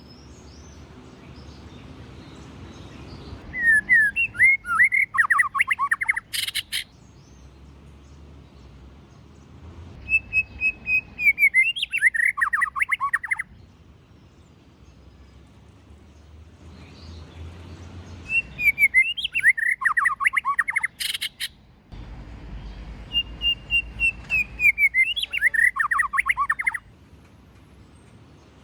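White-rumped shama singing four phrases. Each opens with a clear whistle and breaks into a rapid run of falling, varied notes, with a sharp click at the end of two of them.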